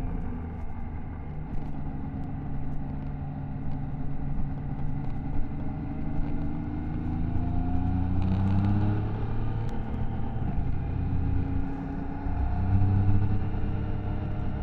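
Triumph Tiger Sport 660's three-cylinder engine and exhaust under way, the revs rising and falling as the bike is ridden, with a long climb in pitch that breaks off about nine seconds in.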